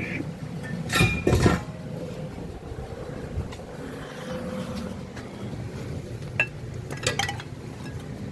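Metal clanks and clinks from a jack and its steel handle being picked up and set. There are loud ringing clanks about a second in, a single click later, and a quick run of clinks near the end.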